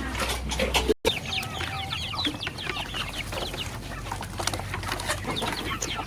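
A flock of chickens clucking, many short overlapping calls, after a brief break in the sound about a second in.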